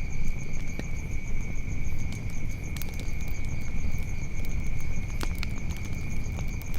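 Wood fire crackling, with a few sharp pops scattered through it over a low rumble. A steady high insect drone runs underneath throughout.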